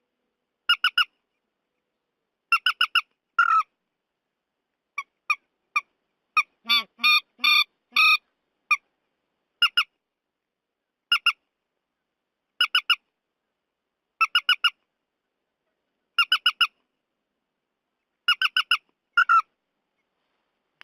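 Recorded calls of the trích ré bird: short, sharp notes in pairs and triplets, repeating about every one and a half to two seconds, with a denser run of calls about six to eight seconds in. It is a bird-call lure track played back for trapping.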